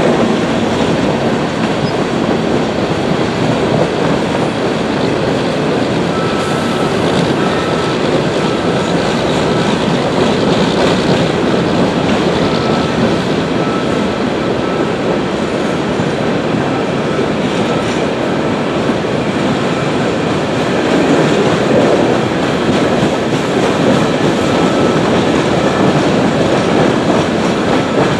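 A freight train of empty open-top hopper cars rolling past on steel rails, a steady loud rumble and clatter of wheels. A faint high squeal comes and goes from about six seconds in.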